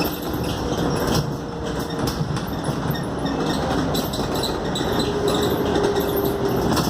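Scania K280UD double-decker bus heard from inside while under way: a steady engine drone under road noise, with small rattles and clicks from the body and fittings.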